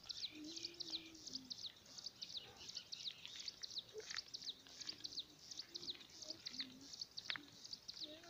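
Birds chirping: a faint, steady stream of rapid, high, downward chirps, several a second.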